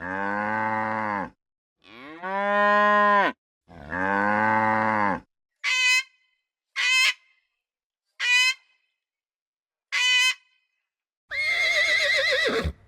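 A cow mooing three times in long, drawn-out calls. Then come four short, high-pitched calls from another animal, and near the end a horse whinnies with a wavering pitch.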